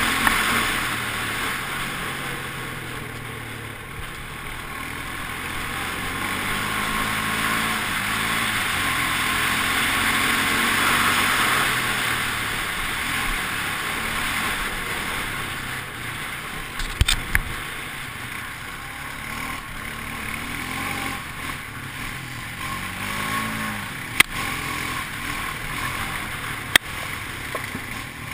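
A vehicle engine running with its pitch rising and falling, over a steady rushing noise, with a few sharp knocks or bumps in the second half.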